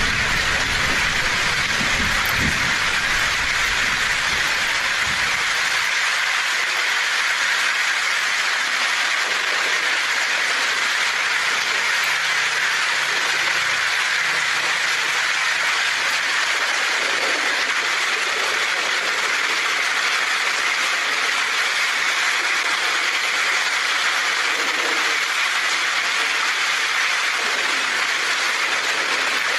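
Heavy rain pouring steadily on a tin roof, with the low rumble of thunder dying away in the first five seconds or so.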